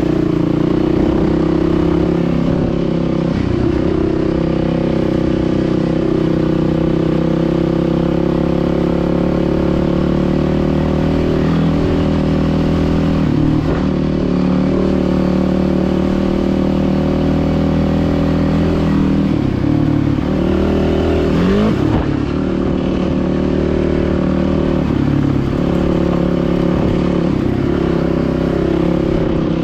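Dirt bike engine running steadily under way, its pitch dropping and climbing again a few times, most clearly about twenty seconds in, as the throttle is eased off and opened back up.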